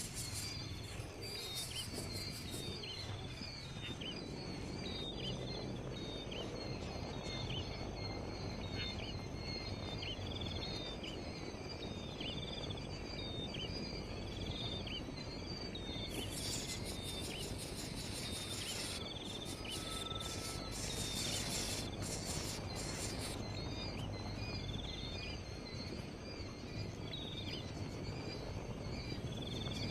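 Outdoor ambience: a bird chirping repeatedly, short calls about once a second, over a steady hum of insects that swells into buzzing bursts partway through.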